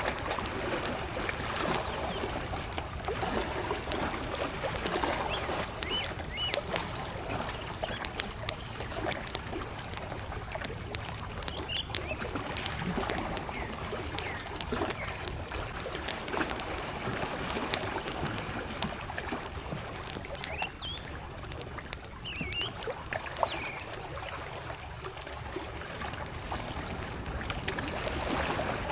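Wood campfire crackling with frequent sharp pops, over gentle lake waves lapping. Short bird chirps come through now and then.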